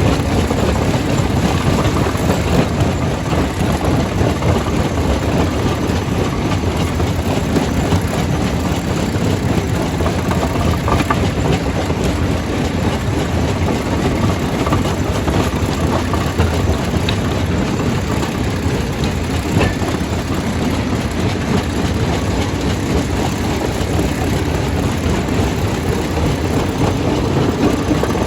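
Stone crusher running under load: a loud, steady, heavy rumble with a rattling clatter of rock being broken, and a few faint sharp knocks.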